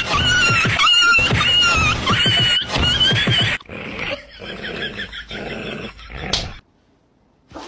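A dog giving one long, wavering, high-pitched howl for about three and a half seconds, followed by quieter rough, noisy sounds. The sound cuts off suddenly near the end.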